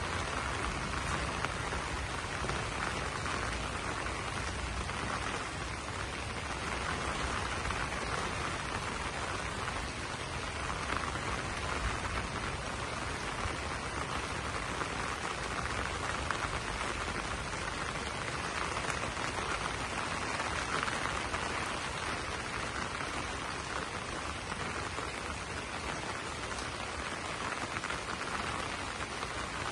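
Steady rain falling on banana leaves: a dense, even hiss of drops that keeps up without a break.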